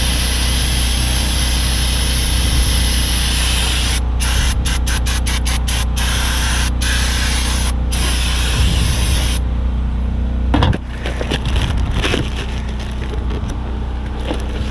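Aerosol spray can hissing as a brake part is sprayed down. The spray breaks off briefly several times about four to eight seconds in and stops near ten seconds, followed by short scraping and rubbing sounds.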